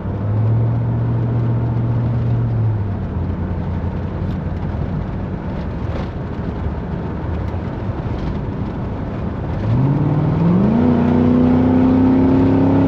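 Ford F-150's engine through its custom side-exit exhaust, heard from inside the cab with a window cracked: a steady cruising drone, then near the end it accelerates, the note rising in pitch, getting louder and holding at the higher pitch.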